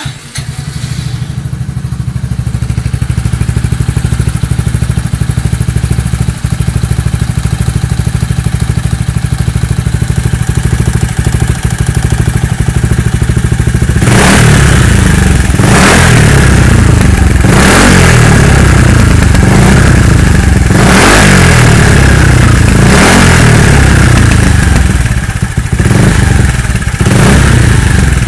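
SYM GTS 200 scooter engine breathing through an AHM aftermarket exhaust. It starts up and idles steadily for about fourteen seconds, then is revved in a string of short, sharp throttle blips before dropping back to idle near the end.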